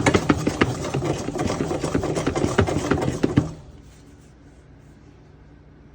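Rapid clatter of a utensil scraping and knocking against a pan as fried rice is stirred, stopping suddenly about three and a half seconds in.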